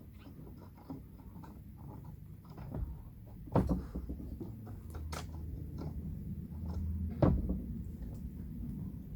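Light clatter and handling noise from fence repair work, with two loud sharp knocks about four seconds apart, each with a short ring.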